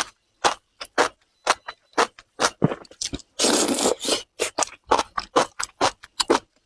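Close-miked chewing of spicy enoki mushrooms, a run of short wet, crunchy bites about two a second, with one longer, rustling stretch about three and a half seconds in.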